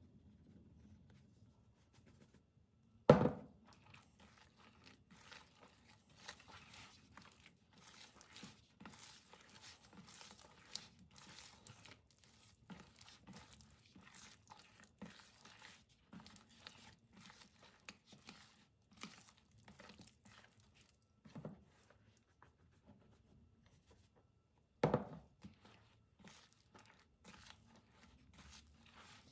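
Close-up handling noises: rustling, crinkling and light clicks throughout, with two loud knocks, one about three seconds in and one near the end.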